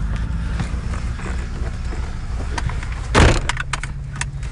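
Toyota FJ Cruiser's 4.0-litre V6 and drivetrain running as a low, steady rumble heard from inside the cabin. About three seconds in comes a sudden thump, followed by a few sharp rattling clicks.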